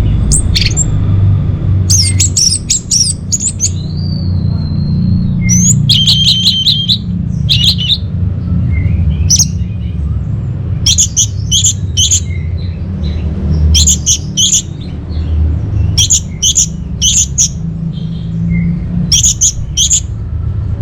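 Orange-headed thrush (anis merah) calling in short groups of three or four quick, high notes, repeated every second or two, over a steady low rumble.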